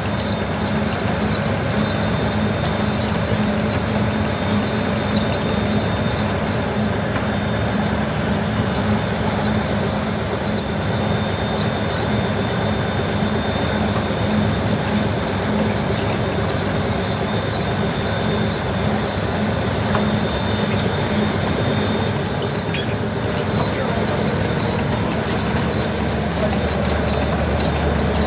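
Automatic squid-jigging machines running on a fishing boat: steady mechanical running over a low hum, with a high squeak pulsing in an even rhythm.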